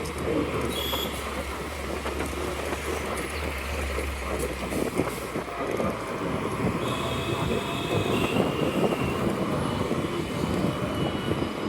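Wind buffeting the microphone and steady road and traffic noise while riding an electric scooter, with a faint high tone appearing briefly in the middle.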